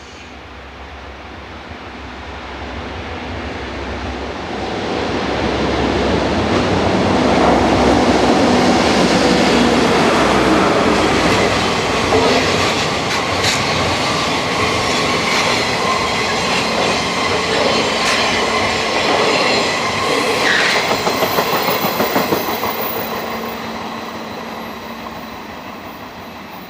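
Locomotive-hauled sleeper express train passing at speed. Its rumble builds over several seconds into loud clickety-clack of wheels over rail joints, which holds for about fifteen seconds and then fades away.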